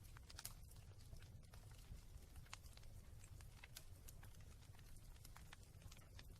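Wood fire crackling faintly, with irregular sharp pops and snaps over a low steady rumble.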